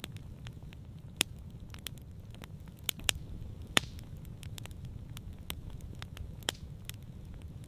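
Wood campfire crackling, with irregular sharp pops, a few of them much louder than the rest, over a low steady rumble.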